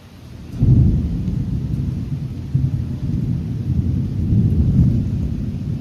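Thunder from a close lightning strike: a sudden loud crack about half a second in, then a long low rumble that rolls on through the storm.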